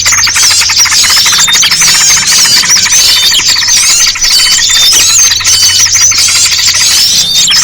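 Dense, unbroken chattering and twittering of many small songbirds, a bird-lure mix of yellow-vented bulbul (trucukan) calls with other small birds, with rapid overlapping chirps. A low steady hum runs underneath.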